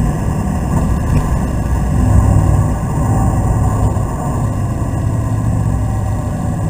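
BMW Z3's engine running steadily under load at speed, heard from inside the cabin together with tyre and road noise.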